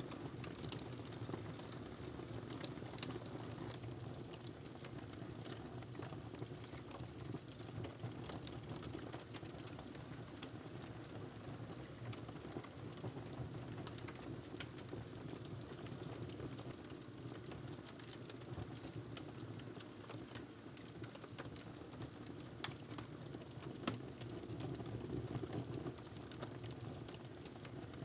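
Wood fire crackling in a fireplace: a steady low rumble of flame under frequent small snaps and pops, with a couple of sharper snaps late on.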